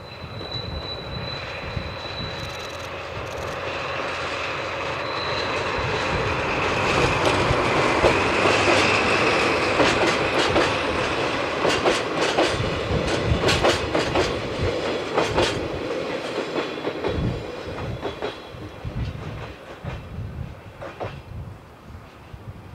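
DD16 diesel-hydraulic locomotive hauling four empty Chiki 6000 flat wagons past. The engine grows louder as the locomotive approaches and passes, then the wagon wheels clatter in a run of sharp clicks over the rail joints, and the sound fades away near the end.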